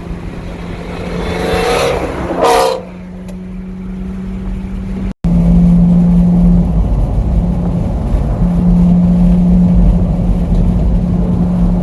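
Car engine running steadily on the road, with a brief rise in engine pitch, as of a car speeding up, that cuts off sharply about two and a half seconds in. After an abrupt cut about five seconds in, the engine drone is louder and steady.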